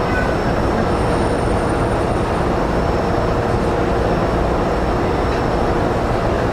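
Steady hum and whine of an E231-series commuter train's onboard equipment, heard from inside the motor car while it stands at a station. Several faint steady tones sit above a constant noise, and a brief higher whine comes about a second in.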